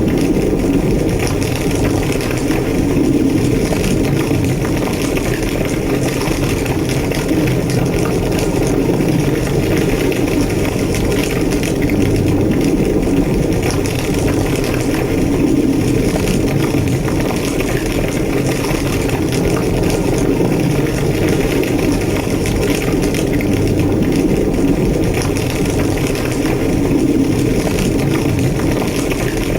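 Large building fire burning steadily: a deep, even roar with scattered crackles over it.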